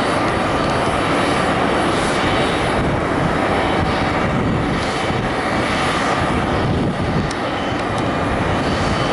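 Airbus A350-900's Rolls-Royce Trent XWB jet engines running, a steady loud rush of jet noise with a faint high whine.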